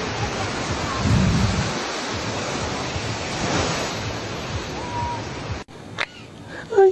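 Steady rushing noise, then a sudden cut to a quieter scene about six seconds in, with a click and a short, loud bird squawk right at the end.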